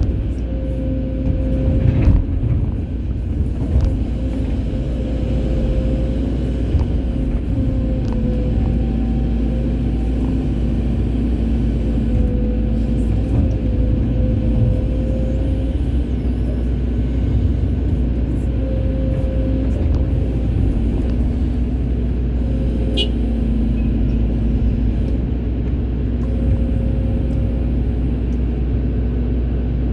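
Hydraulic excavator's diesel engine running steadily under load, with a wavering hydraulic whine over the drone and a single knock about two seconds in.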